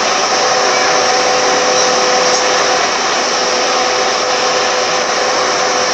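Car air-conditioning blower fan running steadily: an even rush of air with a faint constant whine.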